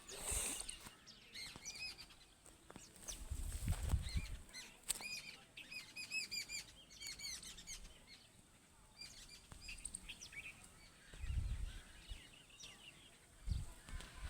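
Small birds chirping in quick, repeated arched notes, busiest in the middle. Two brief low rumbles come about four and eleven seconds in.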